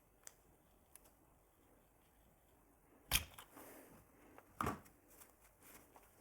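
Handling noises on a workbench: a couple of faint clicks, then two sharp knocks about a second and a half apart, with light rustling between and after them.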